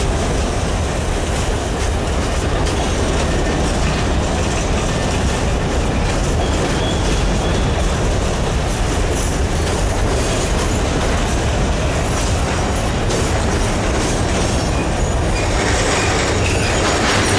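Freight cars of a Norfolk Southern coal train rolling past close by: a steady rumble of steel wheels on the rails, growing harsher near the end.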